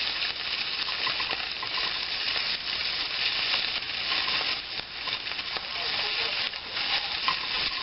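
Meat frying in hot olive oil in a small pan, a steady sizzle, with a spoon stirring and scraping now and then.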